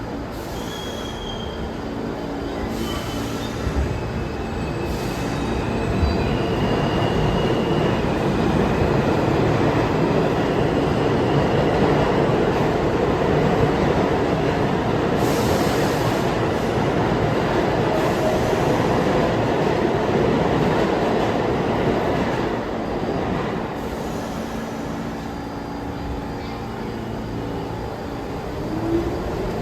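New York City subway train running through the station: a loud, steady rumble of wheels on rail that builds over the first few seconds, holds, and eases off near the end, with a few short, faint, high wheel squeals in the first several seconds.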